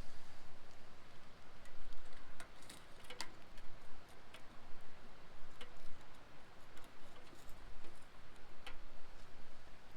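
Wood campfire crackling: irregular sharp snaps and pops over a steady hiss.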